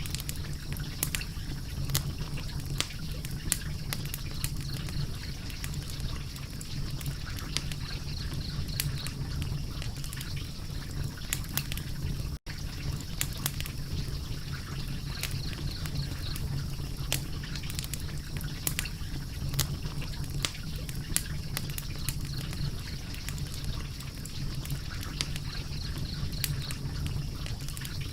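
Wood fire crackling, with frequent sharp pops and snaps over a steady low rumble. The sound cuts out for an instant about twelve seconds in.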